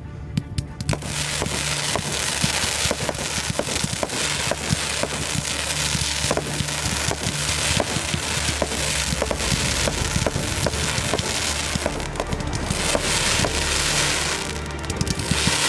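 Fireworks show firing: a dense run of sharp cracks and pops from aerial fireworks that picks up about a second in, over music with a steady bass line.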